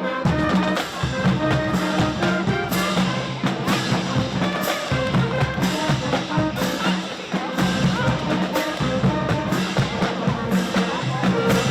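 Brass-and-drum music with held brass notes over a steady beat of sharp drum or cymbal strokes, about one a second.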